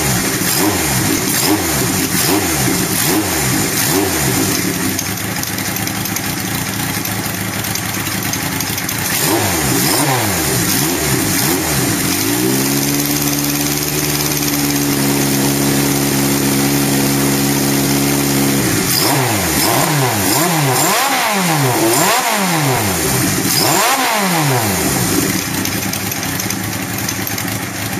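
Kawasaki Z2 (Z750) air-cooled inline-four engine being revved in quick repeated blips, then held at a steady raised rev for about six seconds, then blipped again, freshly running after a starting problem.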